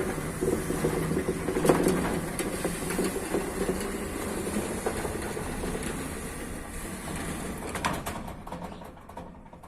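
Electric sliding-gate motor driving the gate along its toothed rack, running steadily with rattling clicks as the gate rolls, then dying away about eight seconds in. The pinion drives the freshly replaced rack sections without slipping.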